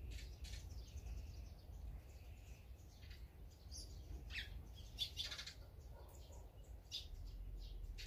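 Small birds chirping and calling in short, scattered notes, with a quick run of several about five seconds in, over a low steady rumble.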